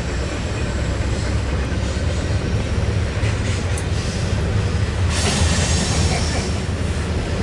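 Double-stack intermodal freight train's cars rolling over a bridge overhead: a steady rumble of steel wheels on rail, with a brief high wheel squeal a little under four seconds in.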